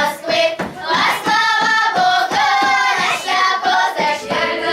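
Children's folk ensemble singing a Russian folk song together, with sharp rhythmic hand claps.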